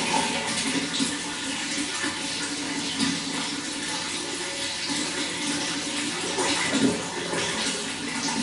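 Running water flowing in a steady, even rush, with a brief louder surge about seven seconds in.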